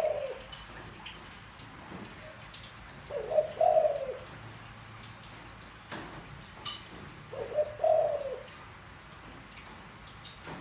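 Spotted dove giving its deep, repeated coo, a phrase of several notes about a second long. It comes twice, a few seconds in and again near the end, with the tail of another phrase at the very start.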